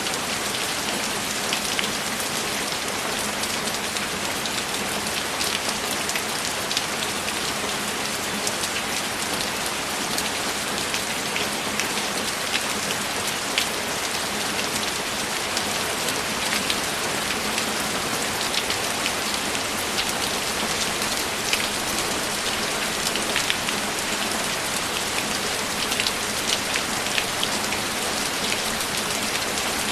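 Steady heavy rainfall, with many individual drops pattering and ticking throughout.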